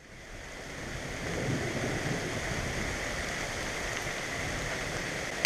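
Steady heavy rain falling, a dense even hiss that fades in at the start.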